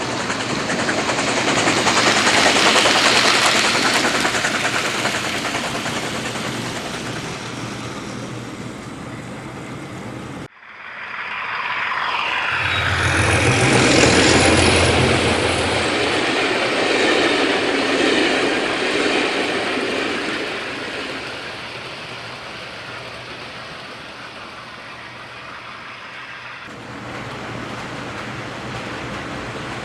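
Train running sounds enhanced for realism: a train rolling past for about ten seconds, cut off abruptly, then a second train whose low engine drone swells and fades away.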